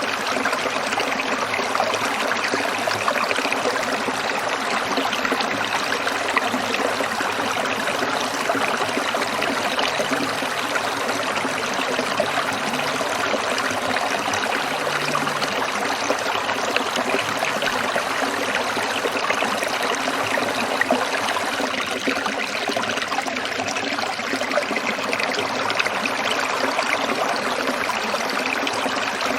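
Small stream trickling steadily over stones, a continuous bubbling babble of water.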